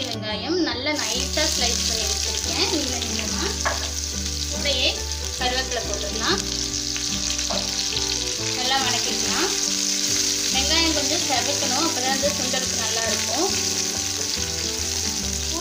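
Onions, curry leaves and seeds frying in hot oil in a non-stick pan, a steady sizzle that starts about a second in as they go into the oil. A hand stirs them near the end.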